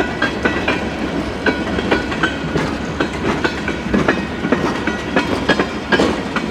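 Freight train cars rolling past, with a steady rumble and many irregular clicks and knocks from the wheels going over the rail joints.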